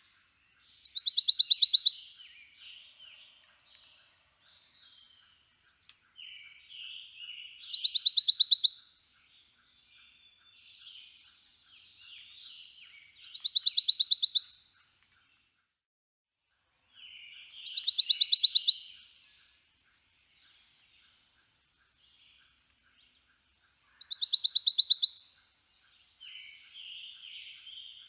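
Songbird singing: a loud, rapid trill repeated five times, about every five seconds, with softer, varied twittering between the trills.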